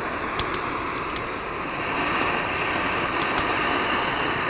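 Track FastBoil integrated canister gas stove burning: a steady rushing hiss of the gas flame that grows louder about two seconds in.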